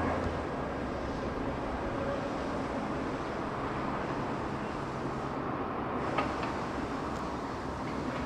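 Airbus A320's jet engines running, heard as a steady rumble with a faint whine, with one short click about six seconds in.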